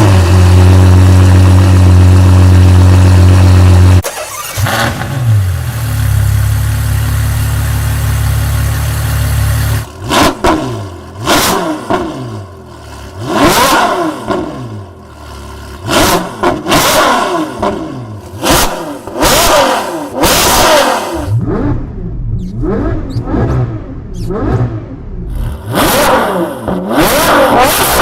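High-performance SUV engine starting and idling steadily, then a second steady idle at a lower pitch, then repeatedly revving, its pitch rising and falling sharply many times.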